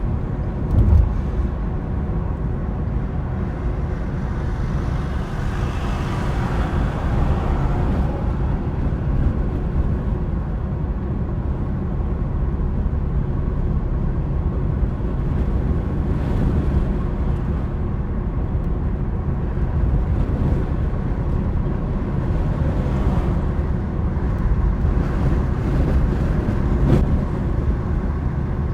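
A car on the move: steady low rumble of road and engine noise, with a few swells as it goes and a short low thump about a second in.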